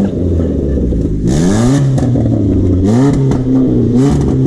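Ford Focus engine revved in three blips, each rising in pitch and falling back to a loud idle. Its exhaust has been opened by a gap cut in the middle of the pipe, which turns the sound into a loud "ronco".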